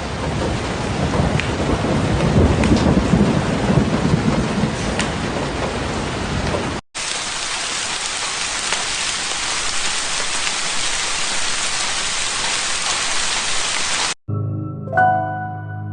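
Heavy rain with rumbling thunder, then, after an abrupt cut about seven seconds in, steady rain hiss without the rumble. Soft piano music takes over near the end.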